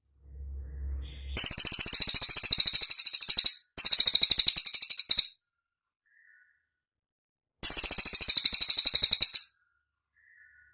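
Cililin songbird singing three loud, very high, rapid trills of fast repeated notes, each lasting one and a half to two seconds, with short pauses between them. A low rumble is heard just before the first trill.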